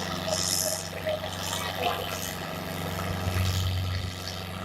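Tractor diesel engine running with a steady low hum that swells about three seconds in, under patches of hissing noise.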